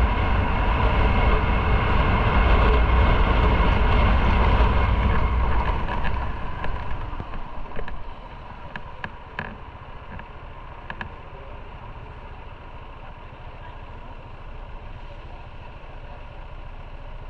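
Motorcycle riding with heavy rumble and rushing noise, which dies down about six to eight seconds in as the bike slows, leaving a quieter steady engine sound with a few faint clicks.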